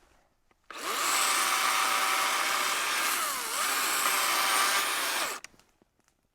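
A power saw running and cutting wood: it starts suddenly, its motor pitch dips briefly about three seconds in as it loads up in the cut, then it stops suddenly.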